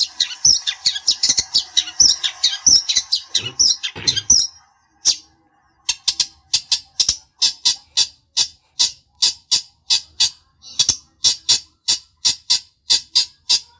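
Long-tailed shrike giving a rapid harsh chatter for about four seconds. After a short pause it moves to a steady series of separate scratchy call notes, about three a second. This is agitated calling used as a lure to provoke rival shrikes into answering.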